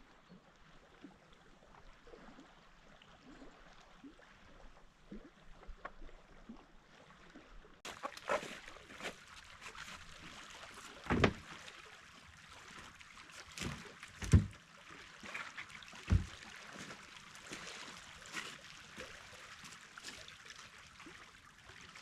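Faint water splashing and trickling, with a few sharper splashes or knocks about 11, 14 and 16 seconds in.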